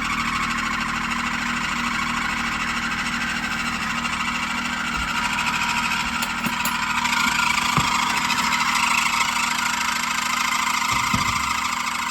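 Car engine idling with its drive belt squealing: a steady, high squeal over the engine hum that grows a little louder partway through. The squeal is the usual sign of a slipping drive belt.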